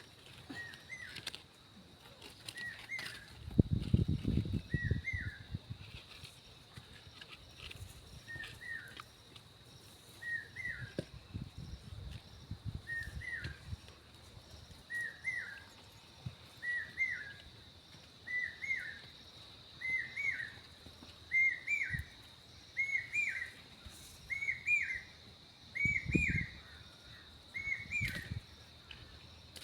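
A bird calling one short, hooked, down-slurred note over and over, about one every second and a half, getting louder toward the end, over a steady high-pitched drone. Low thumps come about 4 seconds in and again near the end.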